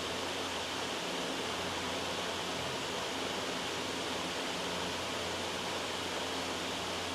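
Steady, loud white noise: an even, unbroken hiss with a low rumble underneath.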